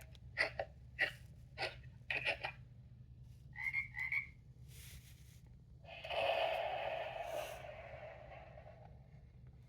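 Recorded sound effects: a toad croaking in a run of short pulses, then a thunderclap that starts about six seconds in and slowly rumbles away.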